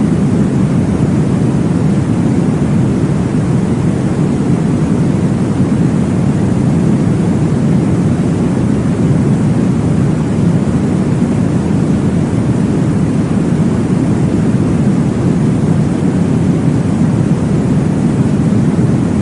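Steady, deep whooshing noise with most of its weight low and the treble rolled off, unchanging throughout: a baby sleep-aid noise track meant to mimic the whoosh of blood flow heard in the womb.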